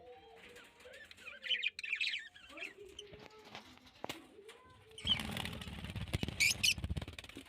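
Small pet cage birds chirping, then a couple of seconds of wing fluttering and rustling starting about five seconds in, the loudest part.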